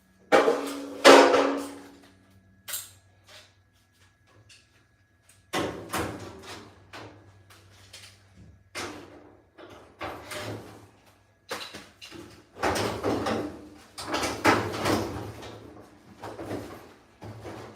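A run of knocks, clatters and scrapes, as of things being handled, over a low steady hum that grows stronger about five seconds in.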